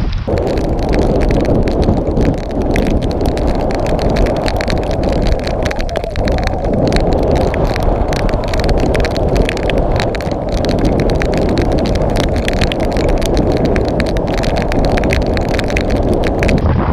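Heavy rain and wind buffeting the microphone: a loud, steady rush packed with rapid ticks of raindrops striking close by.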